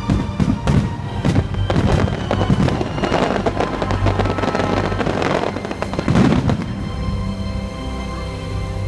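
A rapid barrage of fireworks bursts and crackling over orchestral music, which peaks about six seconds in. About a second later the barrage fades and leaves the orchestral music alone.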